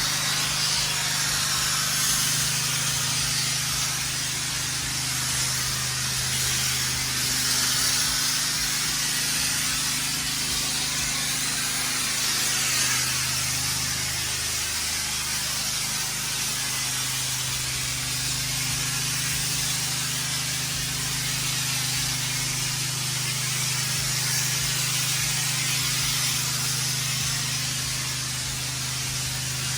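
High-pressure water spraying steadily from a pressure washer hose through an open ball valve, rinsing concrete, with the pressure washer running steadily underneath as a low hum.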